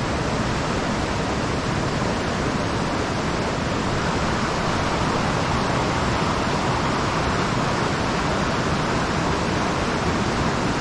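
Small mountain trout stream rushing over rocks close by: a steady, even rush of water.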